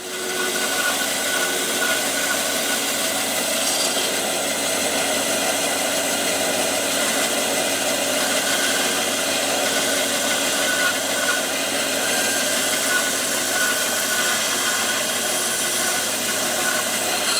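Workshop power tool motor running steadily at an even pitch and level throughout.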